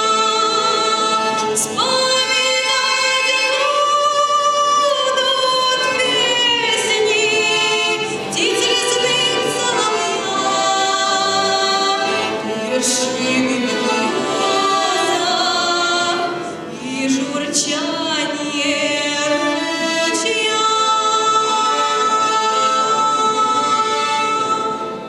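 A young girl singing a song in a clear voice, holding long notes with vibrato, over instrumental accompaniment.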